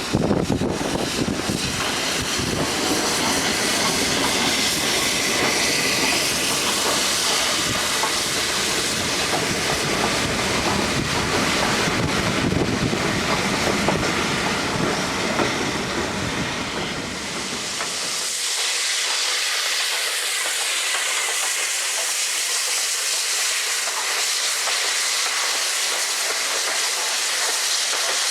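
LNER A1 Pacific steam locomotive 60163 Tornado hissing steam on a positioning move. A low rumble underneath falls away abruptly about two-thirds of the way through, leaving the steady hiss.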